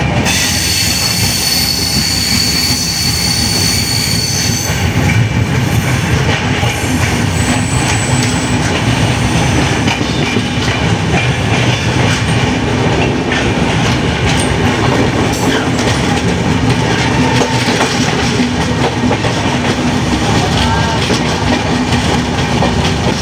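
Suburban electric train running, heard from inside the carriage by an open window: a steady rumble of wheels on rail with clickety-clack over the joints. A high wheel squeal rings for the first four or five seconds, then fades out.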